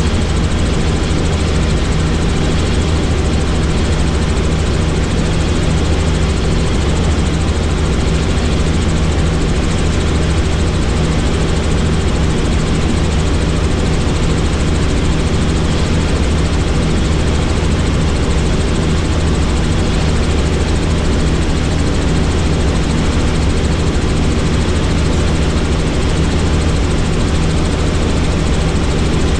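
Helicopter engine and rotor noise heard from inside the cabin, loud and steady with a low, even drone.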